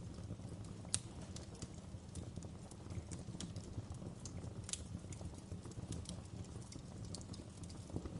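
Wood fire crackling in a fireplace: a steady low rumble of burning logs with irregular sharp pops and snaps, a loud one about a second in and another in the middle.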